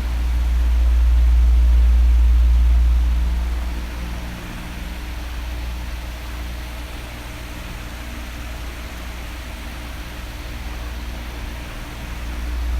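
Electric oscillating fan running: a steady rush of air over a low motor hum. It swells louder over the first few seconds, falls away, then starts to build again near the end as the fan head sweeps toward and away.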